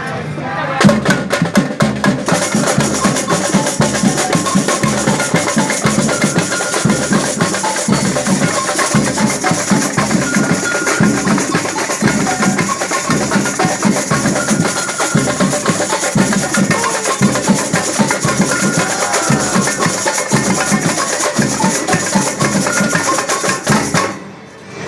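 A band playing a percussion-heavy piece: a fast, driving drum rhythm with a few held melodic notes over it. It cuts off just before the end.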